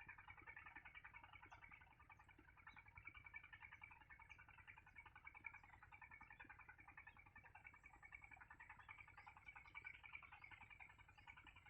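Faint, continuous chorus of rapid, high chirping calls from small animals, with scattered fainter high ticks.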